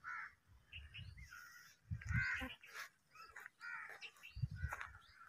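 Faint outdoor bird calls, including crow-like caws, with a few soft low thumps.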